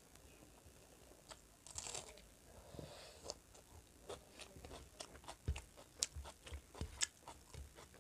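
Close-up eating sounds: a mouthful of rice and curry being chewed, with small crunches and a run of quick, irregular clicks in the second half.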